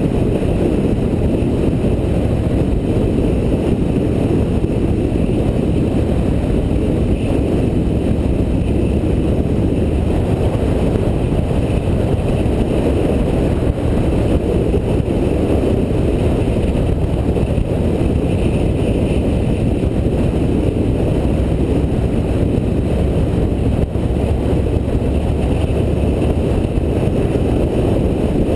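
Steady wind rush over the microphone of a camera on a moving motorcycle, with the motorcycle's engine and road noise under it.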